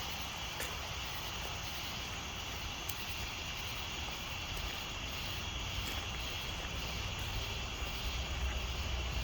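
Steady outdoor night ambience at a campsite: a low rumble that grows louder near the end, a steady high hum, and a few faint clicks.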